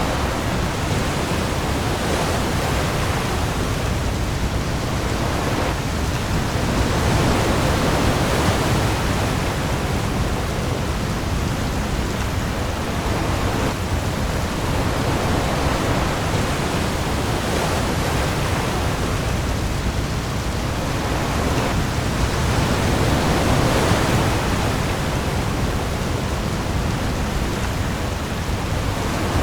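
Heavy rain falling on the sea with waves: a steady, dense rushing noise that swells slowly every several seconds, over a deep low rumble.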